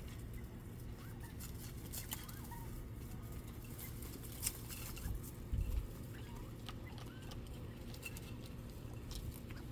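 Quail giving soft, short chirps, with scattered small clicks and rustles, over a steady low hum. A couple of brief louder bumps come about halfway through.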